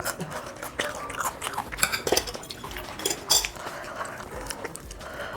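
Close-up chewing and biting of food, with many short crunchy clicks and crackles.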